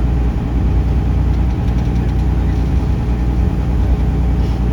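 Taxi boat's engine running at a steady low drone.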